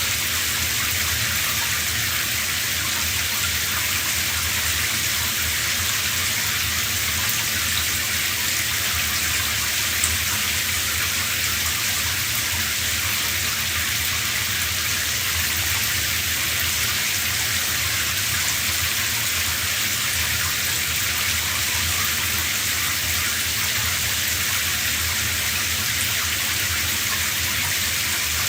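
A shower running, its spray falling in a steady hiss without break.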